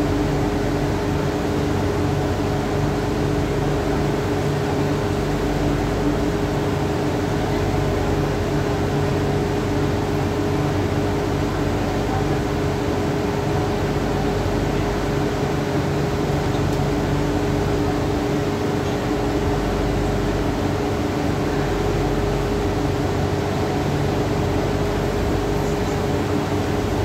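Interior noise of an MTR Kwun Tong line metro train running between stations, heard from inside the car: a steady rumble of wheels and running gear with an even, constant-pitched hum.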